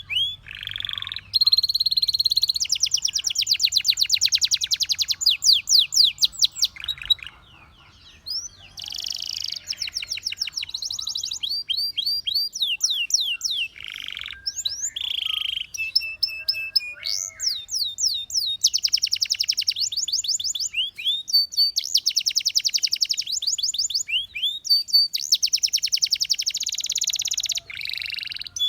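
A domestic canary singing: long, fast trills and rolls of rapidly repeated high notes, each run changing to a new phrase, with brief breaks between tours and a short pause about a third of the way through.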